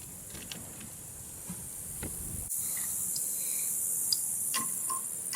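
A steady high-pitched hiss, like insects droning, that gets abruptly louder about halfway through, with a few faint light clicks. No engine cranking is heard.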